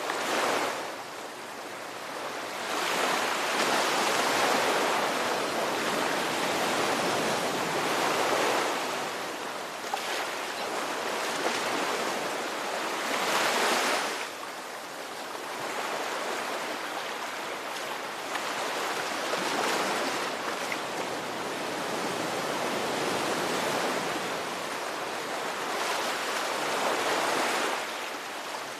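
Ocean waves washing in, a continuous rushing surf that swells and eases every several seconds.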